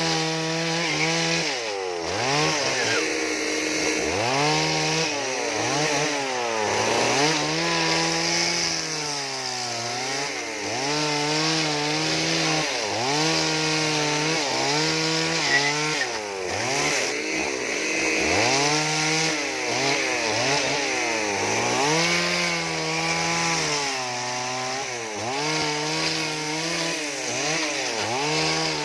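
Chainsaw running under load while carving wood. Its engine pitch repeatedly drops and recovers every couple of seconds as the chain bites in and eases off, over the steady hiss of the cut.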